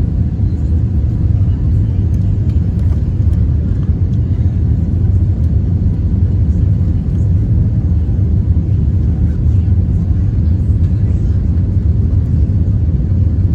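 Steady low rumble of jet airliner cabin noise, engines and airflow heard from inside the passenger cabin.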